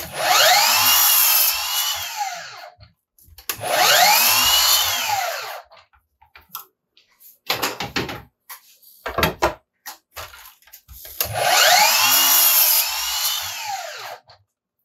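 Cordless miter saw run three times to cut boards to length. Each time the motor whines up in pitch, runs through the cut and winds back down. Short knocks of wood being handled come between the second and third cuts.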